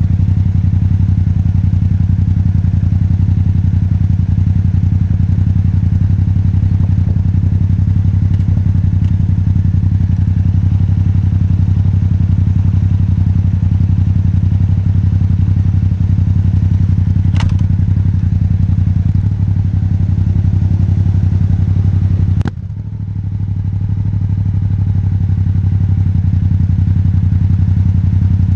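Yamaha MT-07's 689 cc parallel-twin engine running through an Akrapovic titanium exhaust, holding a steady, loud note. A sharp knock comes about 22 seconds in, with a brief drop in the engine sound before it picks up again.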